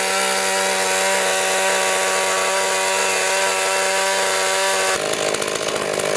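Pull-start petrol chainsaw held at high revs, its engine note steady. About five seconds in the sound turns rougher and noisier.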